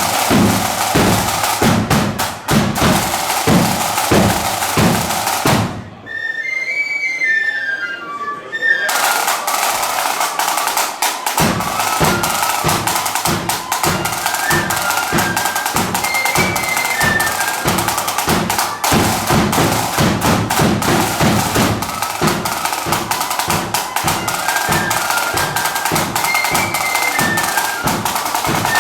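Marching band playing: drums beat a brisk, steady march rhythm under a flute melody. About six seconds in the drums drop out, leaving the melody alone for a few seconds, then they come back in and the full band plays on.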